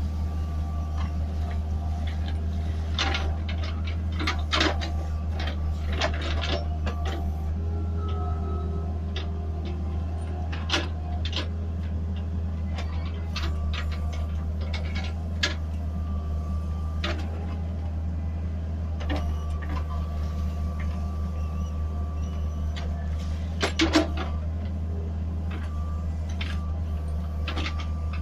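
Small backhoe loader's engine running steadily, with scattered sharp metallic clanks and knocks from the machine working; the loudest knock comes about four seconds from the end.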